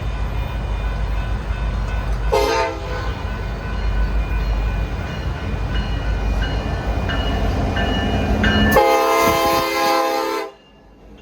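Diesel locomotive of a passing Union Pacific freight train rumbling steadily, sounding a short horn blast about two seconds in and a longer, louder horn blast near the end that cuts off suddenly.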